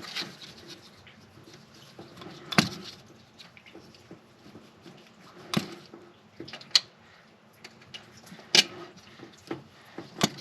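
A few separate sharp clicks and knocks, a couple of seconds apart, of hard parts and tools being handled during work on the engine's ignition.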